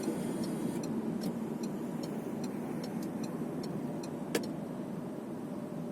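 Car driving, heard from inside the cabin: a steady hum of engine and road noise, with a light, evenly spaced ticking two to three times a second and one sharp click about four seconds in.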